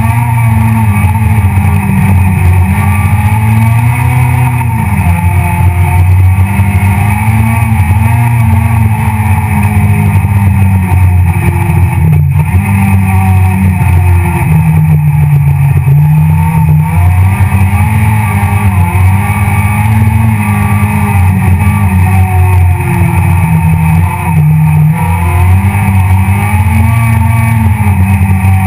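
Citroën C2 R2 Max rally car's four-cylinder engine, loud inside the cabin, revving up and down over and over through the gears at racing pace. A single sharp knock comes about twelve seconds in.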